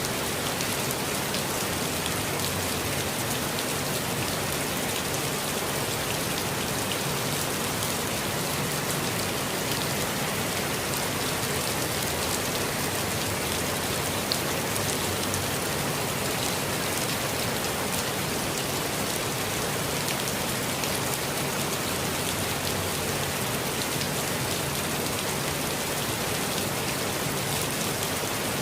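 Steady rainfall pattering on foliage and ground, a dense even hiss of many small drops, with one slightly louder drop about halfway through.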